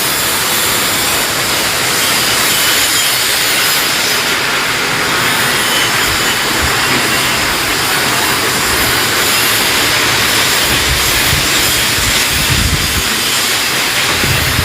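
Strong wind and rain: a loud, steady hiss, with gusts rumbling on the microphone in the second half.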